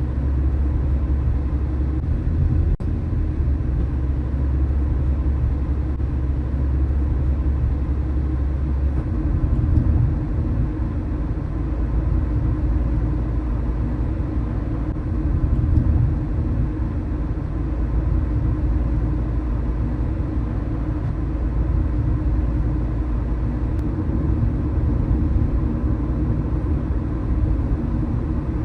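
Car driving along city streets: a steady low rumble of engine and road noise, with a brief click about three seconds in and a change in the deep rumble about nine seconds in.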